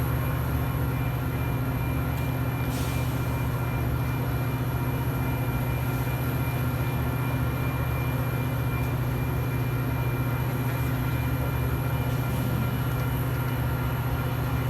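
Metra diesel locomotive running steadily at the station: a low, even rumble with faint steady tones above it and a brief hiss about three seconds in.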